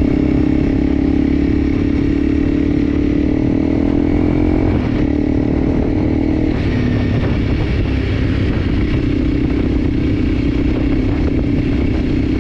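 Enduro motorcycle engine running steadily on the move, its pitch creeping up and then dropping briefly about five seconds in before holding steady again.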